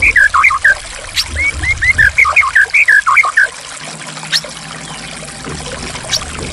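Running water trickles steadily over a songbird's song: two quick runs of short whistled notes, the second ending about halfway through, after which only the water is heard.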